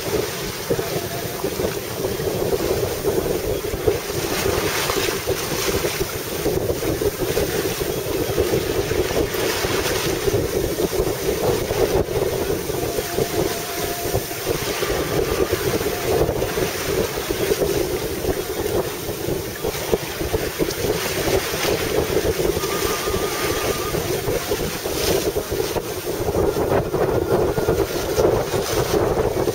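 Wind buffeting the microphone aboard a sailboat under way, with the wash of water along the hull beneath it; a steady rush with no let-up.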